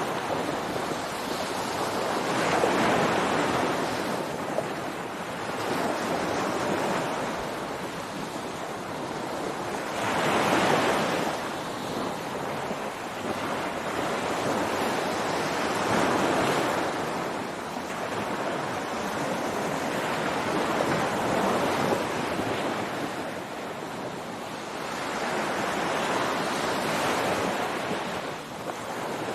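Ocean waves breaking on a beach, the surf swelling and washing up every five seconds or so over a steady rush of water.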